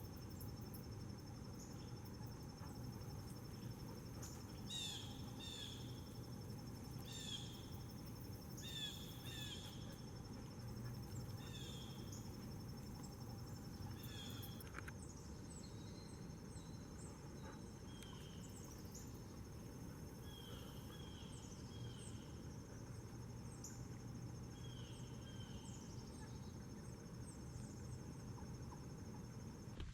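Steady high-pitched insect trill with birds calling over it in short chirps and slurred notes, in clusters during the first half and again later on.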